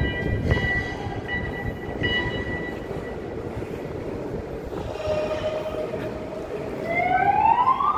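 Heavy machinery running: a rumbling noise with steady whining tones, and a whine that rises in pitch near the end.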